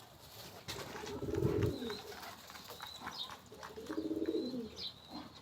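Domestic pigeons cooing: two rolling coos, one about a second in and another near four seconds, with light scattered taps between them.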